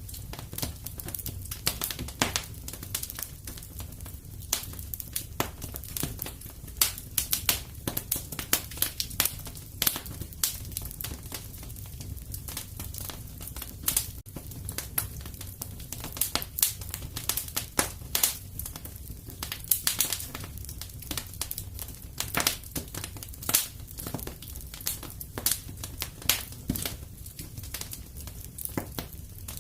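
Wood fire crackling in a fireplace: frequent irregular sharp pops and snaps over a low steady rumble of the burning fire.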